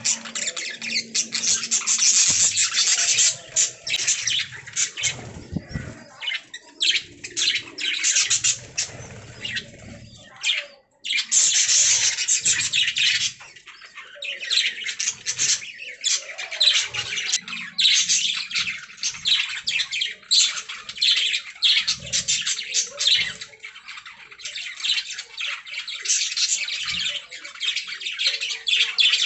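A group of budgerigars chattering: a dense, rapid stream of high chirps, warbles and squawks, with a brief lull about eleven seconds in.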